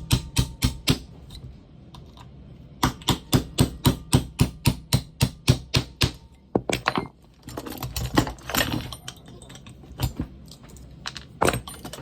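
Small hammer tapping a pin punch to drive the roll pins out of a pneumatic siding nailer's trigger assembly: quick runs of light metal taps, about five a second, one run at the start and a longer one from about three to six seconds in. Some scraping follows, then a few single taps.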